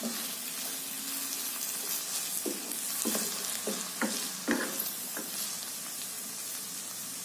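Chopped green chillies, shallots and garlic sizzling in hot oil in a frying pan as they are sautéed until fully cooked, stirred with a wooden spatula. A run of short scrapes and taps of the spatula against the pan comes in the middle.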